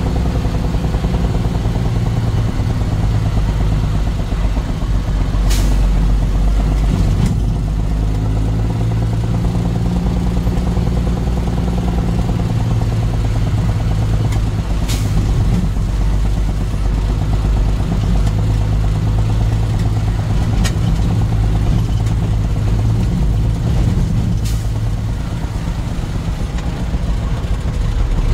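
Heavy truck engine running steadily, a deep even drone, with a few sharp clicks or knocks scattered through it.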